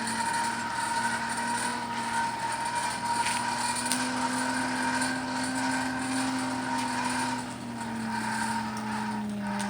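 A motor running steadily, its hum drifting slowly up and down in pitch, over a rushing noise.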